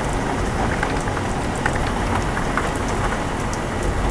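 Heavy thunderstorm rain pouring steadily, with many sharp ticks scattered through it from drops striking nearby surfaces.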